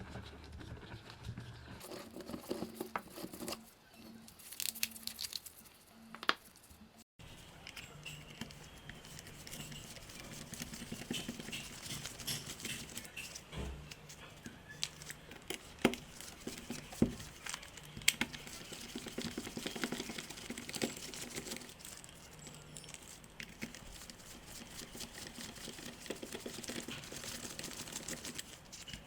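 Light handling noises of a small tool being worked on: scattered clicks, taps and rustling, with a few sharper clicks past the middle and a brief break to silence about seven seconds in.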